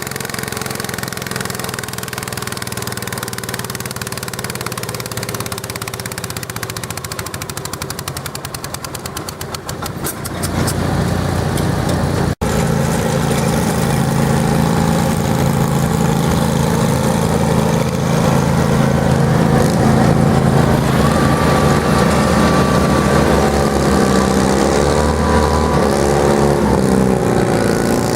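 Garden tractor engine running, growing louder about ten seconds in and then running hard, its pitch wavering up and down near the end. The sound cuts out for an instant a little after twelve seconds.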